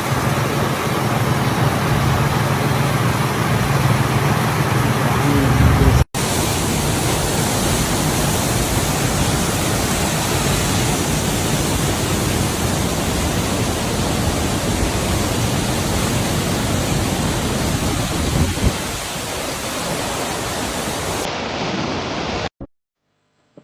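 Waterfall rushing: a loud, steady hiss of falling water. It drops out for an instant about six seconds in, then stops suddenly about a second before the end.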